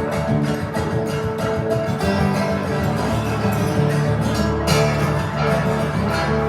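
Guitar music: an acoustic guitar plucked and strummed in a steady rhythm.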